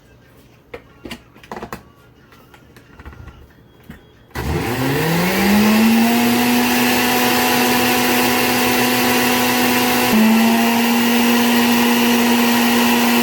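A few small clicks and knocks, then about four seconds in an electric blender switches on. Its motor whine rises quickly to a steady pitch and keeps running as it mixes katayef batter of water, flour and baking powder.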